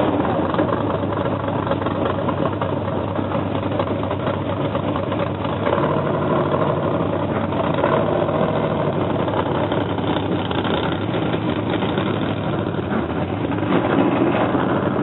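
Monster truck engine running steadily.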